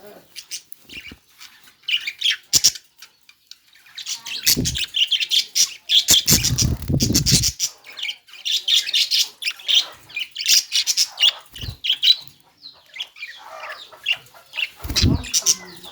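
Budgerigar chirping and chattering in quick, busy bursts of high notes, broken by a few duller low bursts, the longest about six seconds in.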